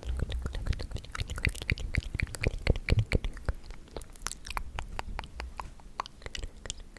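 ASMR mouth sounds: a dense, irregular run of short clicks and smacks from lips and tongue.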